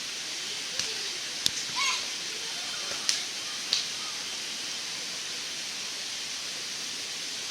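Steady rushing hiss like running water, with a few sharp snaps or clicks about one, one and a half, three and almost four seconds in, and a brief high voice near two seconds.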